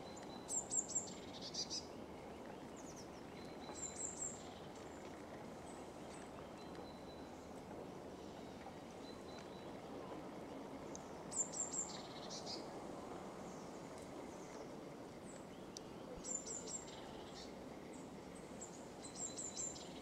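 Small birds chirping in short clusters of high, quick notes, some sliding down in pitch, about five times, over a steady low background rumble.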